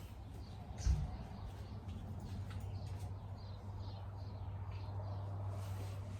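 Birds chirping over a steady low hum, with a single dull thump about a second in.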